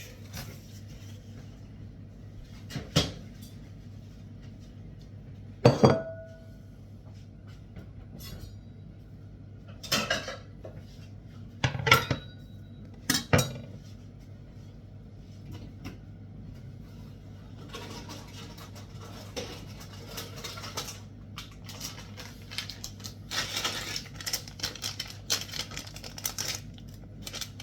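Dishes and cutlery handled while cat food is dished out. A few sharp clinks several seconds apart, two with a short ring, then a longer stretch of scraping and rattling with small taps.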